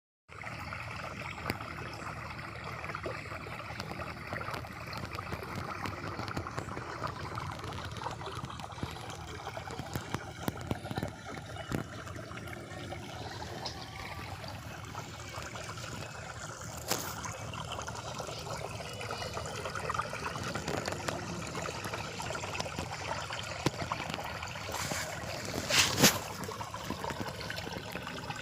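A small rain-fed channel of water trickling steadily over the ground, with scattered small clicks and splashes. A brief louder noise comes near the end.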